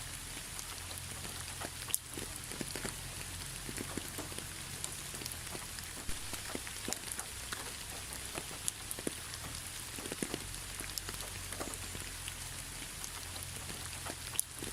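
Steady rain falling, an even hiss dotted with many separate drop ticks, one sharper tick about two seconds in, over a faint low steady hum.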